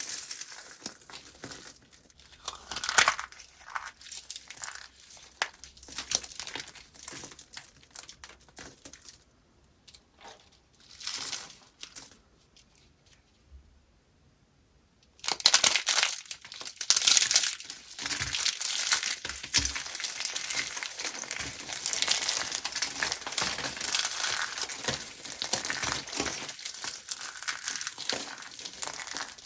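Dry soap being crushed, a crackly, crunchy crinkling made of many small snaps. It goes sparse and nearly stops for a few seconds in the middle, then returns as dense continuous crunching for the second half.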